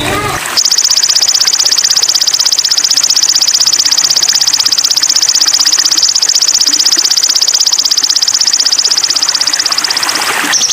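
A sogon (sogok ontong) bird singing a long, very rapid, high trill that starts about half a second in and holds steady for about ten seconds before stopping near the end.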